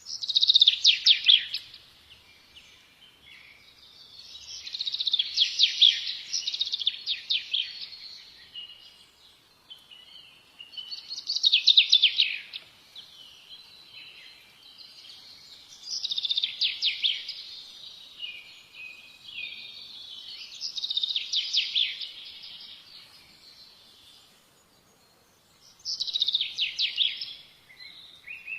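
A songbird singing: a run of quick, high chirping notes lasting a second or more, repeated about every four to five seconds, six phrases in all.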